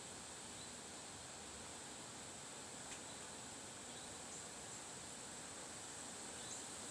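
Faint steady wind hiss outdoors, with a constant high-pitched tone over it and a few faint short chirps.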